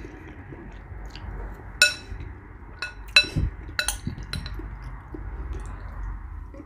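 A spoon clinking against a bowl during eating, about four sharp, briefly ringing clinks over a low steady hum.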